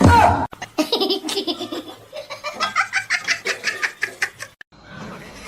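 A person laughing hard, a long run of quick repeated ha-ha pulses that stops shortly before the end, after a brief loud sound at the very start.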